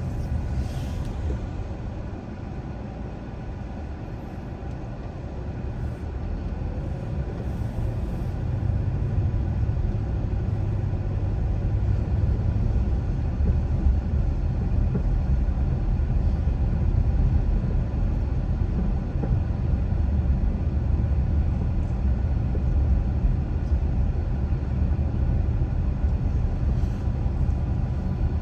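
Car driving, a steady low rumble of tyre and engine noise. It dips for a few seconds near the start, then grows louder from about four seconds in and holds.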